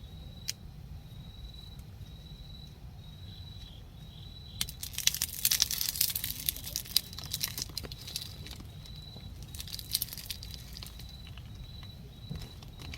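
Several seconds of loud crinkling and rustling in the middle, over a steady high-pitched insect trill and a low background hum.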